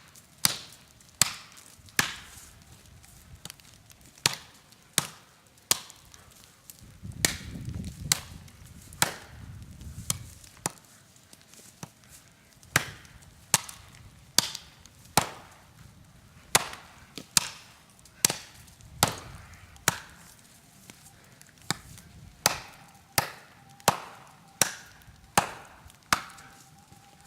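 Golok blade chopping into a dead, dry tree trunk, one sharp strike after another at a little over one a second. A low rumble passes in the middle.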